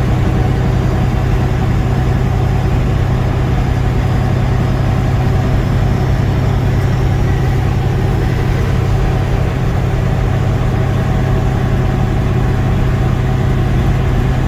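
Peterbilt semi truck's diesel engine running steadily at highway cruise, a constant low drone with road noise, heard from inside the cab.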